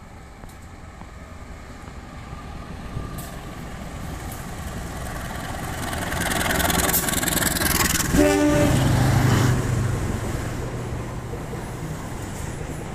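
Indonesian KAI diesel train drawing near and passing close, growing steadily louder to a loud rush about six seconds in. A short horn toot sounds about eight seconds in, and a low steady engine hum follows as the noise slowly fades.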